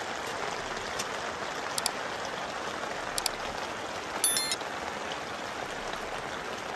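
Steady hiss of rain, with a few faint ticks. About four seconds in comes a brief high-pitched ring, the loudest sound.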